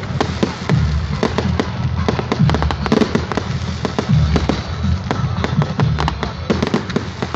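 Fireworks going off: a dense, irregular string of sharp cracks and pops over a low rumble.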